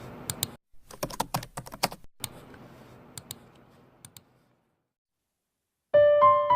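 Irregular sharp clicks over a faint hum and hiss, like computer keys being typed, stopping a little after four seconds in; about six seconds in, piano music begins.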